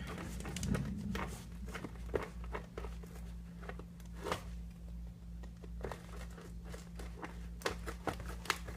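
A parcel being opened by hand: packaging crinkles and tears, with many scattered short clicks and crackles, over a steady low electrical hum.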